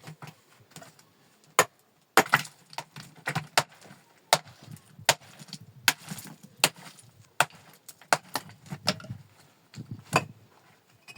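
A series of sharp, irregular knocks and cracks, about one or two a second, some louder than others.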